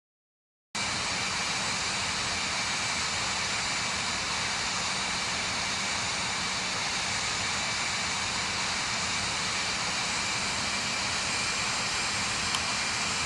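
Boeing 767 freighter's jet engines heard as a steady rush of noise with faint high whining tones, starting abruptly just under a second in.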